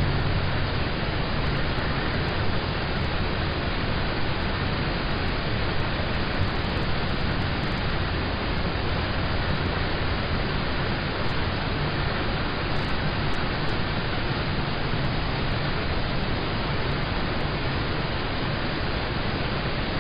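Steady rain falling on a car, heard from inside the car as an even, unbroken hiss.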